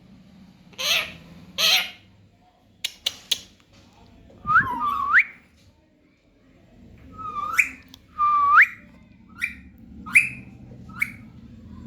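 Baby parrot calling: two short harsh squawks, a few sharp clicks, then several whistled calls that dip and then rise in pitch, ending in shorter chirps.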